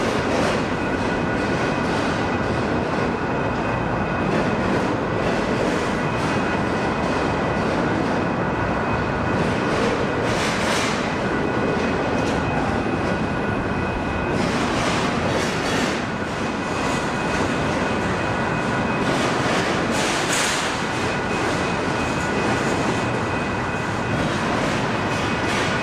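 Double-stack intermodal freight train of loaded well cars rolling steadily past at close range: a continuous rumble and rattle of wheels on rail with a faint steady high whine. A few brief hissing swells come about 10, 15 and 20 seconds in.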